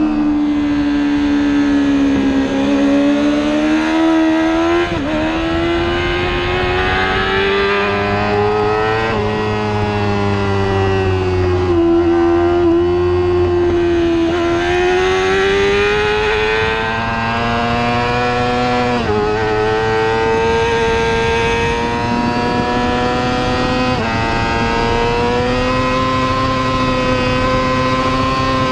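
Superbike racing motorcycle engine under hard acceleration at high revs. Its pitch climbs and then drops suddenly at each upshift, several times.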